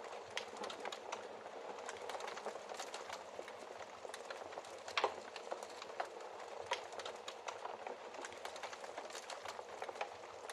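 Wood fire burning in a fireplace: a steady crackle with many small, irregular pops and snaps, and a louder snap about five seconds in.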